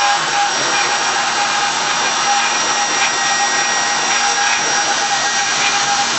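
Mini CNC machine running: a steady motor whine with a constant high tone over a loud hiss, like a power tool.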